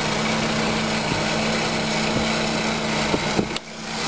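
2001 Ford Focus's 2.0-litre 16-valve Zetec four-cylinder engine idling steadily, with a couple of sharp clicks a little over three seconds in and a brief drop in sound just after.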